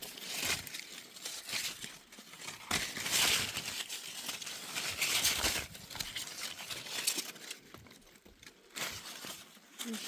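Irregular rustling and crinkling from hands at work, coming in uneven bursts, the loudest about three and five seconds in.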